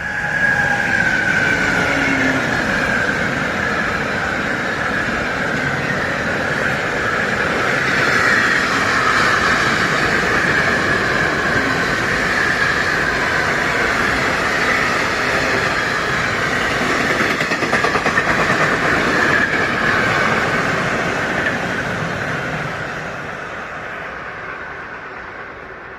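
Berlin S-Bahn electric train passing close by, a sustained rolling and running noise with a high whine. It swells up within the first second and fades away over the last few seconds.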